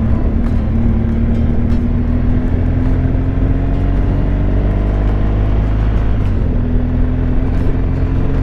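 Motorcycle riding at road speed: a heavy low wind rumble on the microphone over the engine's steady drone, which climbs slowly in pitch, drops briefly about two-thirds of the way through, then holds steady again.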